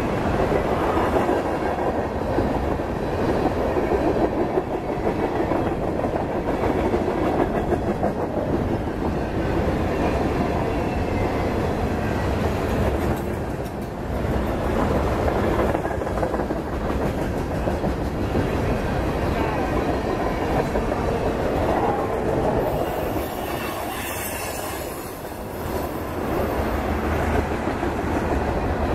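Freight train cars rolling past at speed: steel wheels on the rails making a steady, loud rumble, easing off briefly twice, about halfway through and again near the end.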